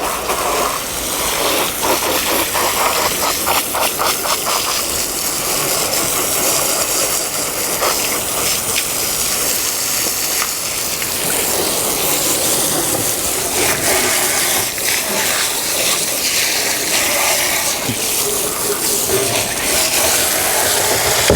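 Water spraying steadily from a hose onto a boat as it is rinsed during a wash, a continuous hiss and splash.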